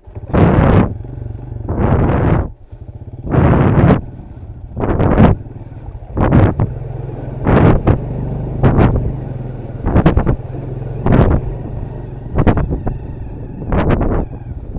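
Honda dirt bike engine running steadily, overlaid by loud rushing bursts that come about once every second.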